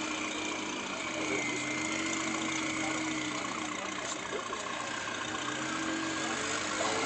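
Engine of a rock-crawling buggy running steadily, its pitch drifting slightly up and down.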